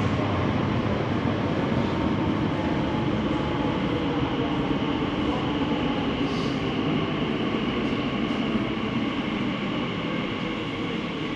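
An Elizabeth line train running on the underground line, a steady rumble that slowly fades toward the end.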